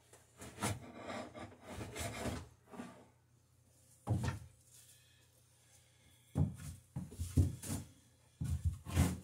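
Hand tool's blade scraping and cutting along a wooden boat rail in a series of short strokes, pausing midway before more strokes near the end.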